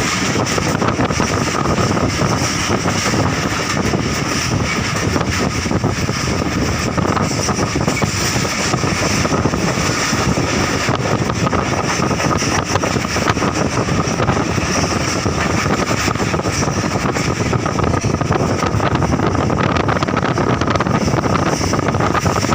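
Moving passenger train: a steady, loud rumble of the carriage running on the track, mixed with wind rushing past the microphone.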